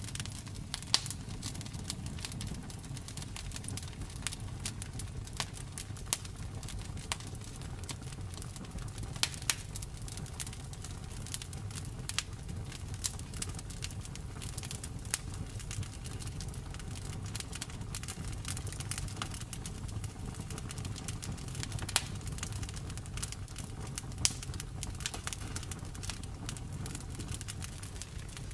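Wood fire burning with a steady low rumble and irregular crackles and pops, a few of them sharp and loud.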